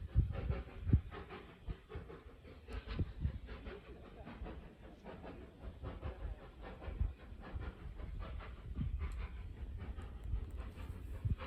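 A train on a heritage railway running, with a low rumble and irregular knocks and thumps.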